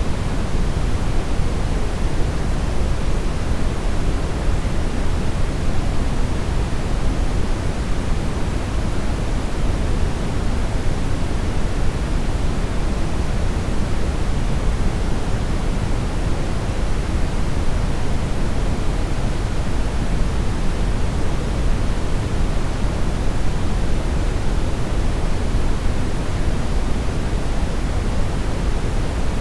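Steady brown noise: an even, deep hiss, strongest in the bass and fading toward the treble, with no changes.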